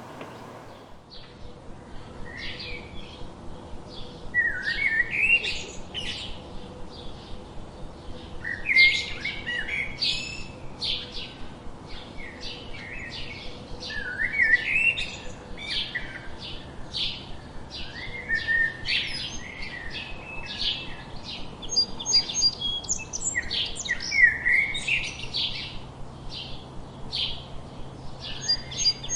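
Several songbirds chirping and singing at once: a steady run of short, quick chirps, with repeated warbled phrases mixed in.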